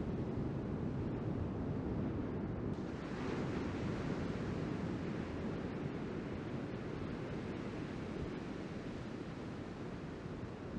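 Ocean surf with wind on the microphone: a steady rumble of waves, and about three seconds in a wave breaks and its wash fades slowly.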